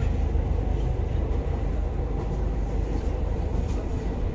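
Train running, a steady low rumble with no distinct clicks or changes.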